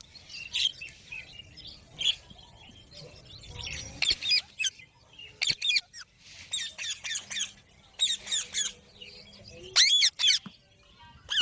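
Pet rose-ringed (Indian ringneck) parakeets giving short, harsh screeching calls in quick runs of two to four, the loudest pair near the end.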